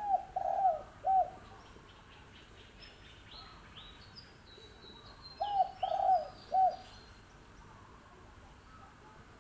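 A six-month-old spotted dove cooing: two phrases of three low, falling coos, one at the start and one about five and a half seconds in.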